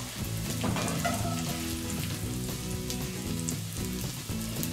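Sausage and onion pieces sizzling steadily as they brown in a cast-iron Dutch oven.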